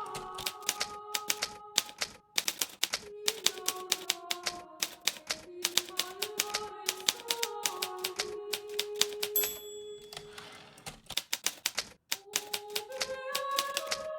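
Hermes Baby portable manual typewriter typing, keys striking in quick irregular runs with brief pauses, over soft melodic background music.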